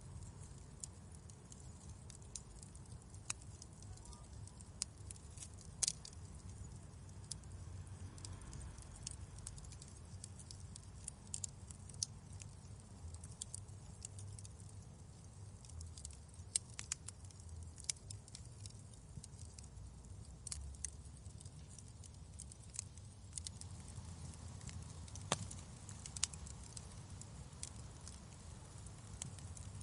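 Wood fire crackling in a fireplace: irregular sharp pops and ticks, a few louder than the rest, over a low steady rumble.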